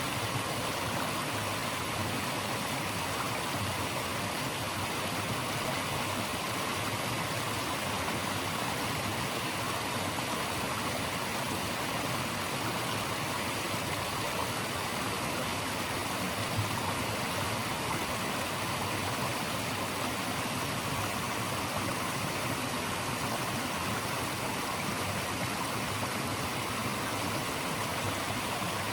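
Running water rushing in a steady, even hiss, with no breaks or changes.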